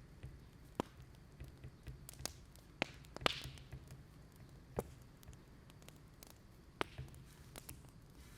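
Wood fire crackling: irregular sharp pops and snaps, the loudest about three seconds in with a brief hiss, over a low steady rumble.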